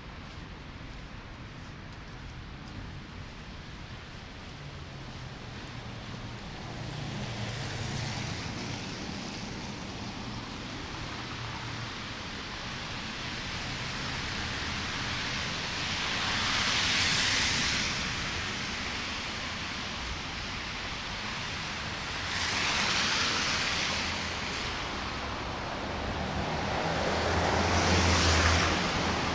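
Street ambience in snowfall: a steady hiss of traffic and wind, with three vehicles passing on the wet, snowy road, their tyre hiss swelling and fading, once about halfway through and twice near the end; the last one has a low engine rumble.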